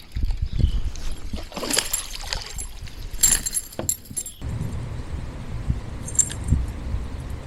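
Fishing tackle jingling and clattering in a kayak while a freshly caught bass is handled, in three short bursts of metallic rattle over a low steady rumble.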